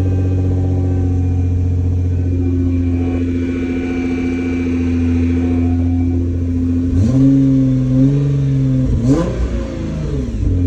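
Nissan GT-R R35's twin-turbo 3.8-litre V6 idling steadily, then revved briefly twice, about seven and nine seconds in, before settling back to idle. It runs smoothly with its clogged fuel pump filters replaced.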